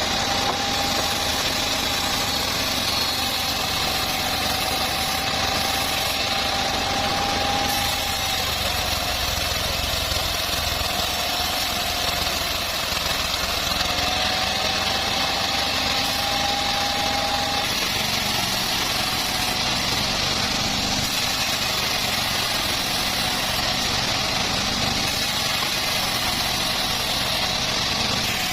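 Home-built bandsaw mill running steadily, a continuous mechanical noise with a faint whine that drops away and comes back partway through.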